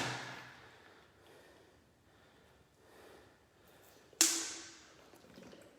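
A man breathing quietly between exercise sets. About four seconds in, one sudden loud exhale fades out over about a second.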